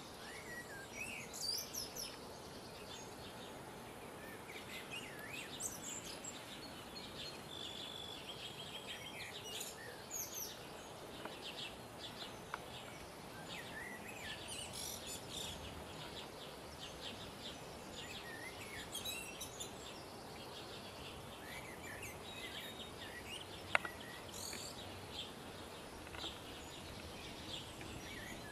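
Several small birds chirping and calling in open countryside over a steady outdoor hiss, with one sharp click about 24 seconds in.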